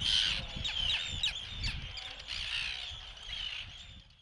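Seabird colony calling: many short, high, harsh calls overlapping, with a low rumble underneath, fading out near the end.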